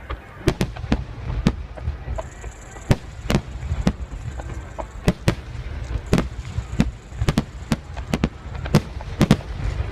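Aerial fireworks bursting in a rapid, irregular string of sharp bangs, several a second, over a steady low rumble.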